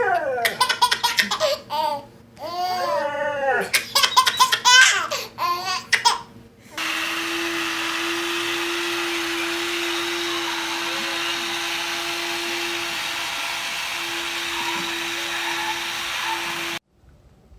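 A baby laughing in repeated bursts of giggles and belly laughs for about six seconds. Then a steady whirring noise with a constant hum runs for about ten seconds and cuts off suddenly.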